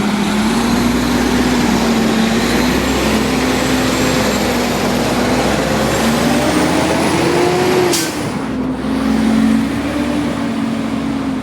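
Automated side-loader garbage truck's engine running, its pitch climbing as it revs up, then a brief sharp burst of sound about eight seconds in, after which the engine settles back.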